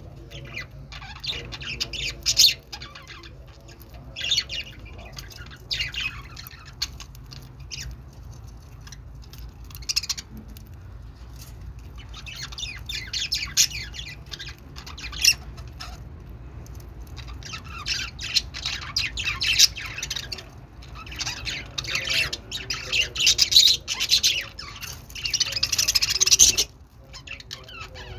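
Budgerigars chirping and chattering in quick bursts, with sharper squawks, busiest and loudest in the last third.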